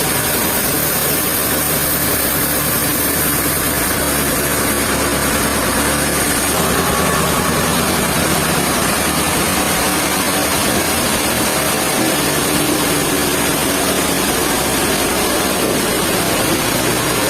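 Sawmill machinery running steadily, a loud, unbroken mechanical din.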